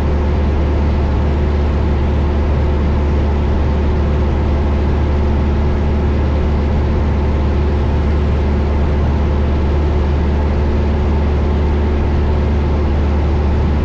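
Cabin drone of a 1972 Cessna Skyhawk's four-cylinder Lycoming engine and propeller in flight, a loud steady low hum that holds constant throughout.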